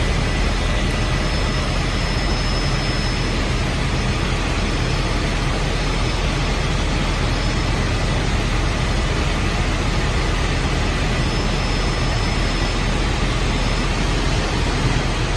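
Helicopter in flight, heard from inside the cabin: steady engine and rotor noise with a faint high whine.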